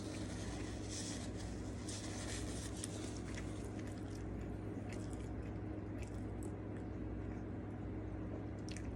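A person chewing and biting food with soft, irregular mouth clicks and squishes, busier in the first few seconds, over a steady low hum.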